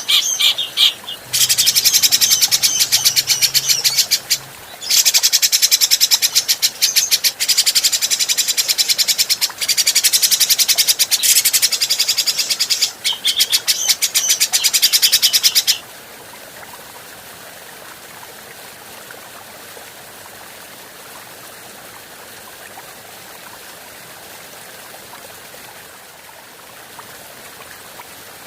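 A cucak jenggot bulbul calling in long runs of fast, harsh chattering notes, broken by a couple of short pauses, which stop about halfway through. After that only a steady hiss remains.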